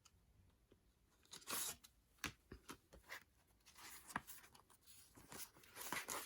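Quiet handling of a CD single's packaging: brief crinkling rustles and light clicks, the loudest rustle about a second and a half in.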